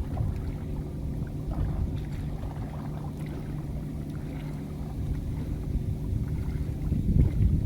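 Small boat's engine running steadily with a low, even hum, with wind buffeting the microphone.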